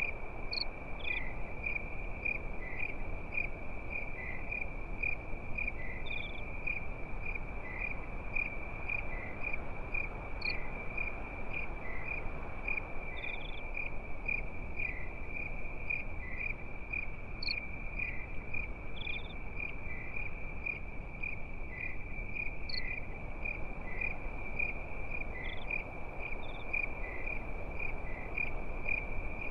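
Crickets chirping at night: a steady, high-pitched, rapidly pulsing trill, with a few shorter, higher chirps every few seconds, over a low, even background rush.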